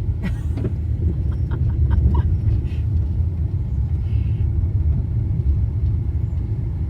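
Steady low road rumble of a car being driven, heard from inside the car, with a few faint small clicks in the first three seconds.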